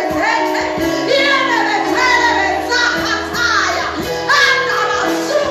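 Church music: voices singing over an accompaniment of steady held notes.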